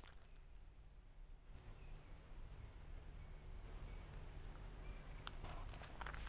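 A small songbird singing two short phrases a couple of seconds apart, each a quick run of high notes falling in pitch, over a low steady rumble.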